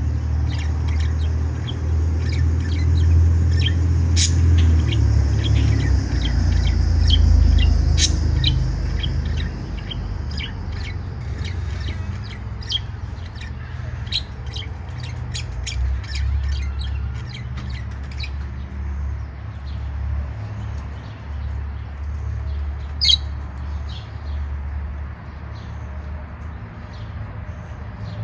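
Outdoor birds chirping and calling in short, scattered notes, one louder call about 23 seconds in, over a steady low rumble that is heaviest in the first third and then eases.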